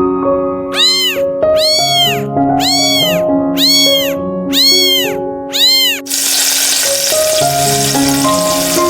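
A cat meowing six times, about once a second, each meow rising and then falling in pitch, over gentle piano music. About six seconds in, a steady sizzle like food frying in a pan starts up.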